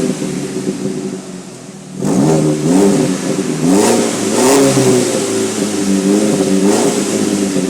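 Audi 1.8T turbocharged four-cylinder engine revving through a Flowmaster 60 Series muffler fitted in place of the stock muffler and resonator. It eases off during the first couple of seconds, then rises and falls in about four quick blips, and holds a slightly wavering rev before dropping near the end.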